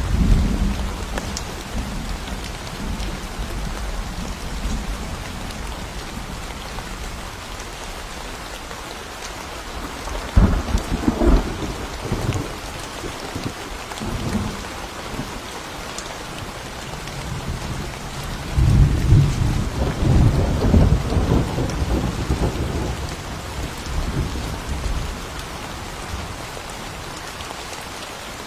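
Steady rain falling through a thunderstorm, with thunder: a low rumble at the start, a louder, sharper clap about ten seconds in, and a long rolling rumble in the second half that dies away before the end.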